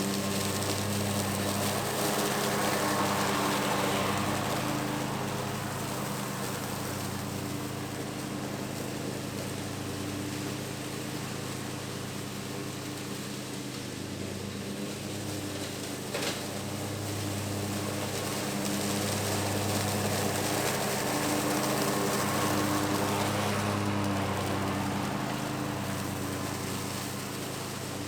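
Bad Boy Maverick zero-turn mower running steadily at work, its sound swelling louder twice, with a single sharp click about sixteen seconds in.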